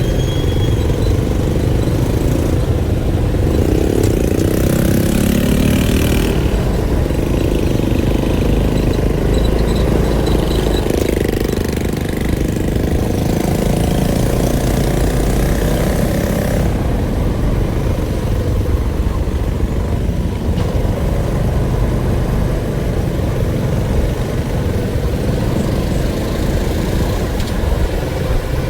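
A motor vehicle's engine running, heavy in the low end, with a few shifts in pitch several seconds in.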